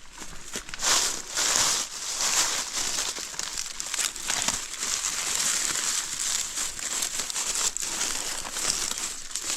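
Close, continuous rustling and crinkling of leaves and brush, with irregular crackles and louder surges now and then.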